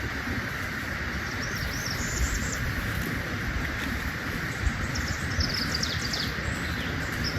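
Outdoor ambience: a steady hiss with a few short bird chirps about two seconds in and again around five to six seconds, and wind rumbling on the microphone.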